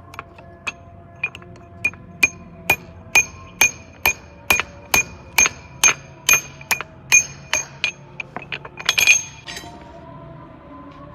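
A hammer striking metal, about two blows a second, each with a short metallic ring, speeding up into a quick flurry of lighter blows near the end before stopping.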